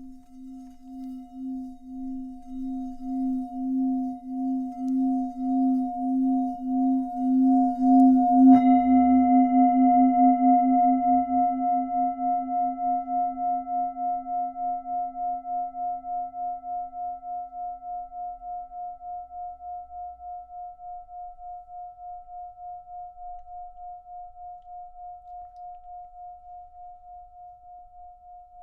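Singing bowl sounding: its low tone swells with a steady pulsing wobble, then a strike about eight seconds in adds higher ringing tones, and the ring fades slowly.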